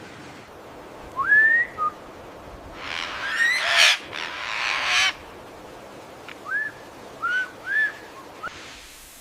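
Bird calls: a short rising whistled note, a couple of noisy, hissing bursts, then three short up-and-down whistled notes in quick succession.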